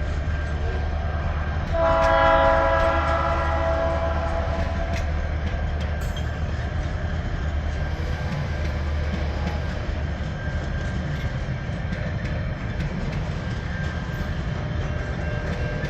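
TasRail diesel locomotives 2054 and 2052 working a train uphill, engines running with a deep steady drone. The multi-tone locomotive horn sounds once, about two seconds in, for about two seconds. Later the engine drone fades, leaving the wagons rolling past with light clicking of wheels over the rail.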